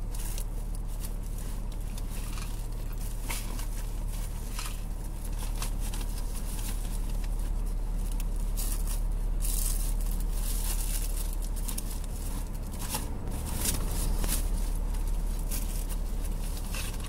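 Car engine idling steadily with a low hum while it warms up in the cold. Over it, things are rummaged through, with irregular rustling and crinkling that is busiest in the second half.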